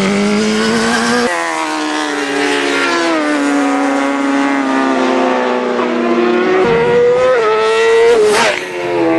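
Superbike racing motorcycle engines at high revs: the pitch climbs, drops sharply at an upshift or roll-off about a second in, then winds back up. Near the end a bike passes close with a brief whoosh.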